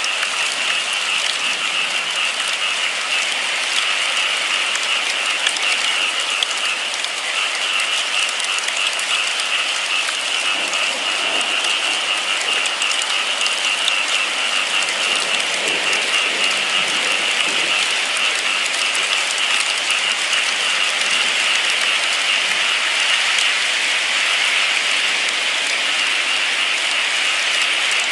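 Steady rain falling and pattering on a surface, an even hiss with many fine drops.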